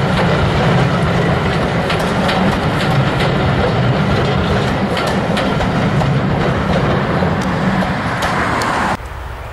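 Passenger train coaches rolling past on the rails, the wheels clicking over the rail joints in quick, irregular clacks. The sound drops off abruptly near the end.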